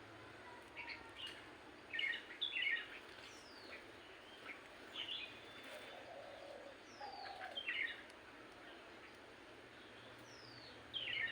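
A black-and-white bird calling: clusters of quick chirps mixed with short, high whistles that fall in pitch, repeated every few seconds, loudest about two to three seconds in.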